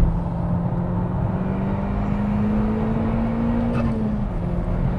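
SEAT Leon Cupra's turbocharged four-cylinder engine pulling hard under acceleration on track, its pitch rising steadily, then falling about four seconds in at an upshift, over steady tyre and road noise.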